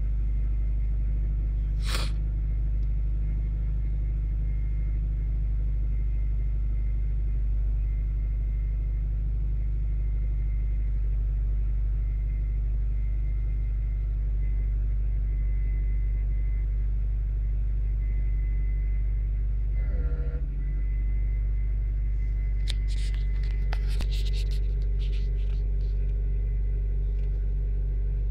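Honda B18B1 1.8-litre four-cylinder engine of a 1995 Acura Integra idling steadily, about 750 rpm. An odd intermittent noise that the owner cannot identify sounds from the passenger side of the engine bay: a sharp click about two seconds in, a brief change in the running sound about twenty seconds in, and a few clicks soon after.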